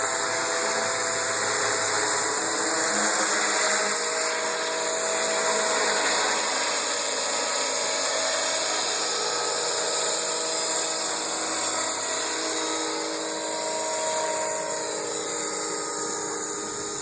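Radio-controlled AS350B Esquilo scale model helicopter in flight: its motor and rotors give a steady high whine whose pitch drifts slightly, getting quieter near the end.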